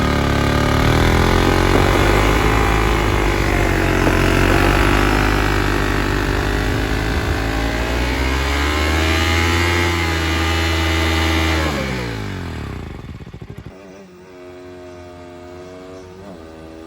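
Motorcycle engine running loud and close, its pitch rising and falling with the throttle, then winding down about twelve seconds in. A quieter engine hum follows near the end.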